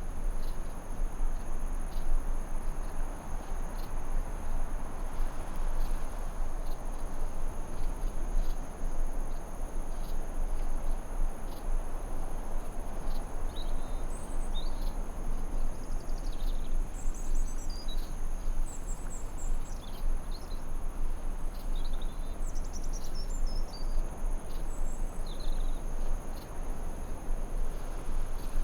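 Forest night ambience: a steady high-pitched insect drone on two pitches over a constant rushing background. Short, high bird chirps come in scattered bursts through the second half.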